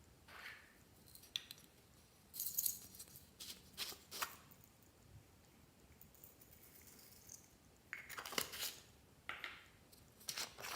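Glossy slime being worked by hand, giving irregular sticky crackles and clicking pops in short clusters, with quiet gaps between them.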